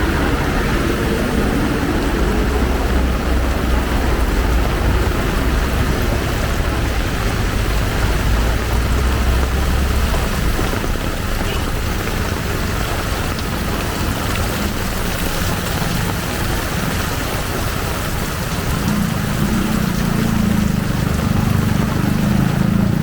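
Heavy rain pouring steadily, with motor vehicle engines running close by: a low steady hum for roughly the first ten seconds and a louder low rumble over the last few seconds.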